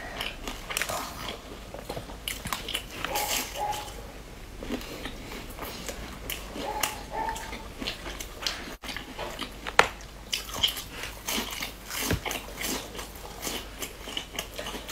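Crisp biscuit sandwich cookies being bitten and chewed close to the microphone: a string of short, sharp crunches and crackles.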